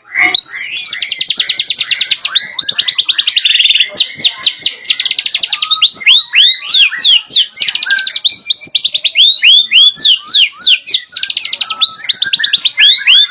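White-rumped shama (murai batu) singing continuously in full song, with canary song mixed in. Long, very fast trills alternate with runs of quick downward-sweeping whistles.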